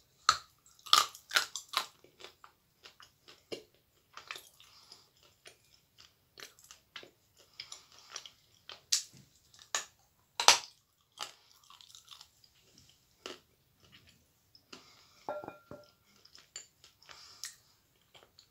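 A person biting and chewing a chunk of Turkestan edible clay: irregular crisp crunches and mouth sounds, with one loud crack about ten seconds in.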